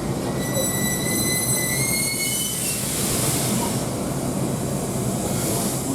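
High-pitched metallic squeal from the C57 steam locomotive, one held tone rising slightly, which breaks off about two and a half seconds in and gives way to a rushing hiss. The squeal is the abnormal noise that stalled the locomotive, which the uploader attributes to a broken sealing part in the left cylinder.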